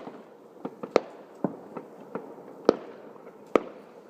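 Fireworks going off: a run of sharp bangs at irregular intervals, about five loud ones with smaller pops in between.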